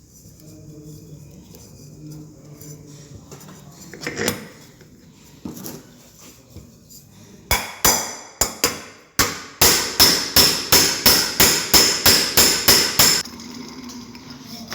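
Hammer blows, a few irregular strikes and then a steady run of about three a second for some five seconds, each with a short ringing tone. A single lighter knock comes earlier.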